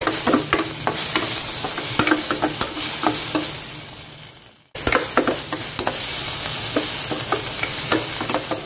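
Prawns sizzling in hot oil in a stainless steel pan while a metal ladle stirs and sautés them, clinking and scraping against the pan. The sizzle fades, cuts off abruptly about four and a half seconds in, then starts again loud and fades once more.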